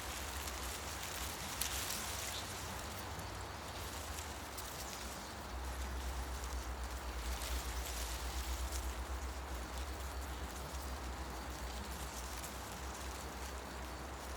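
Wind through the leaves of forest trees: a steady rustling hiss that swells in gusts, over a low wind rumble that grows stronger about five seconds in.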